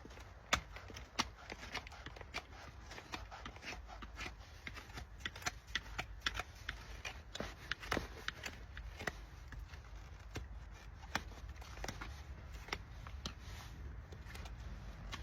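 Shire horse's hoof being trimmed by hand: a run of irregular small cutting clicks and scrapes as the farrier's tools pare away hoof horn.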